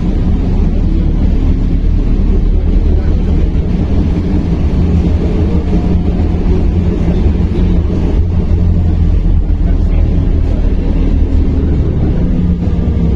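Belkommunmash BKM-60102 under way, heard from inside the passenger cabin: a steady low rumble of the running gear and road, with a faint hum over it.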